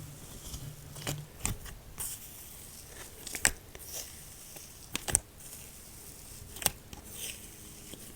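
Slime being squeezed and stretched by hand, giving a handful of sharp pops and clicks at irregular moments over a soft, faint squishing.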